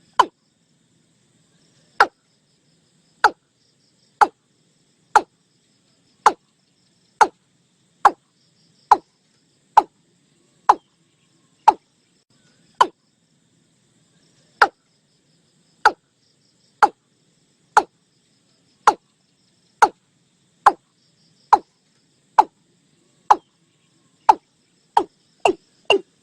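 Watercock calling: a series of short, hollow notes at about one a second, coming faster over the last couple of seconds.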